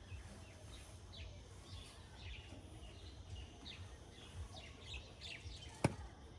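Small birds chirping repeatedly over a low rumble, with one sharp click near the end.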